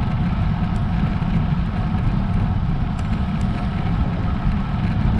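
Steady low rumble of wind and road noise on the camera microphone while riding a road bike, with a few faint ticks now and then.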